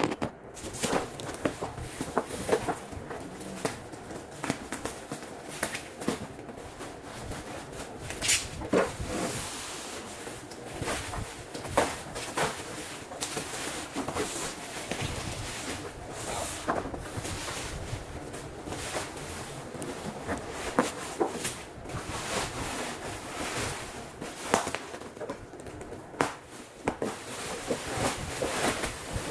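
Irregular knocks, scrapes and rustling of a large cardboard TV box being handled and opened, with many short sharp clicks throughout.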